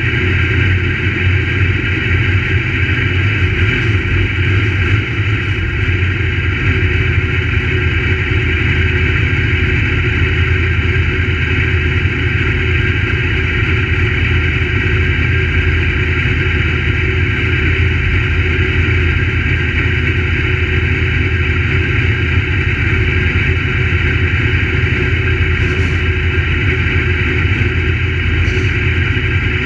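Crate late model race car engines running, a loud steady drone that barely rises or falls in pitch.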